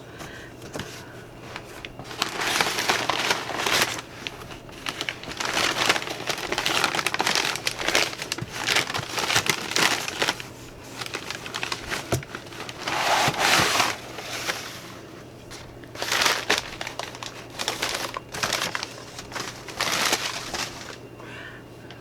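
Crinkly packaging being handled and pulled away from a toy sewing machine: crackling, rustling bouts of a second or two that come and go for most of the time, with short pauses between them.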